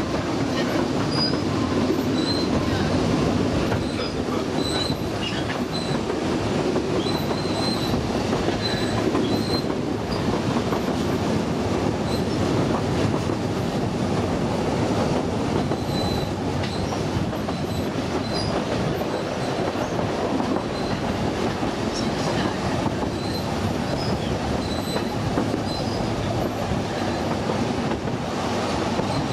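Narrow-gauge steam train running, heard from an open carriage window: a steady rumble of the carriage wheels on the track, with short high-pitched wheel squeals recurring throughout.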